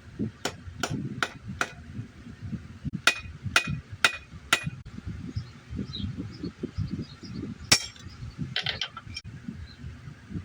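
Blacksmith's hammer striking a masonry nail on an anvil while forging it into a small hook: a run of four quick ringing blows, a pause, four more, then one single loud blow and a brief clatter near the end, over a low rumble.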